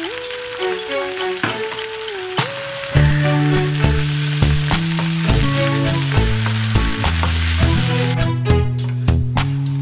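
Flaked canned tuna sizzling in oil in a nonstick frying pan as it is stirred with a wooden spatula. Background music plays throughout, getting louder with a bass line about three seconds in. The sizzling drops away near the end.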